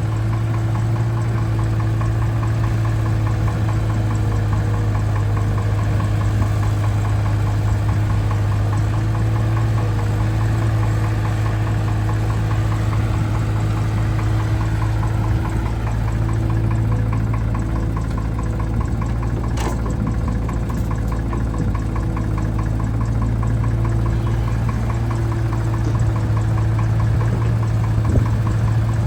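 Mahindra Yuvo 575 tractor's diesel engine running steadily at an even speed, with a low drone and a fast, even diesel knock.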